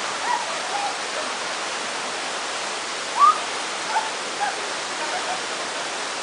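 Waterfall rushing in a steady wash of water noise, with a few short high calls over it, the loudest a brief rising call about three seconds in.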